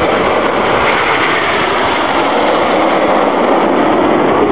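Jet noise of the Red Arrows' BAE Hawk jets flying past: a loud, steady rushing sound.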